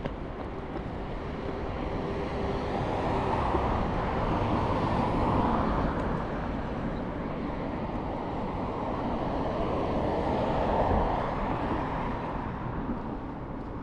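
Passing road traffic: a broad rush of vehicle noise that swells and fades twice, as two vehicles go by.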